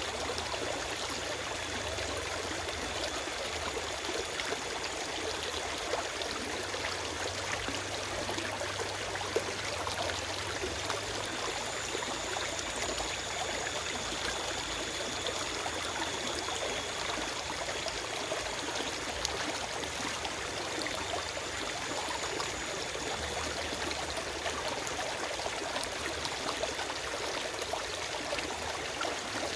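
Forest stream flowing steadily over rocks, a continuous rushing and trickling of water with small splashes.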